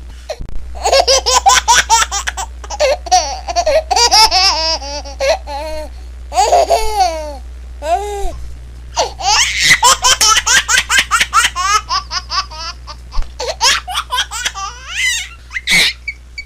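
Baby laughing, in bouts of rapid pulsing laughter broken by short pauses, over a low steady hum.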